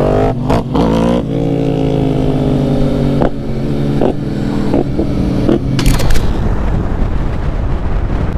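Yamaha R1 sport bike's inline-four engine revved and let fall back, with sharp exhaust pops and cracks as it shoots flames from the exhaust. About six seconds in it cuts to a steady rush of wind and road noise from a motorcycle riding at speed.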